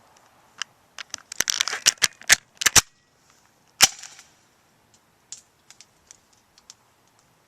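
Airsoft gun being fired: a quick run of sharp snaps in the first few seconds, a single loud snap a second later, then a few faint ticks.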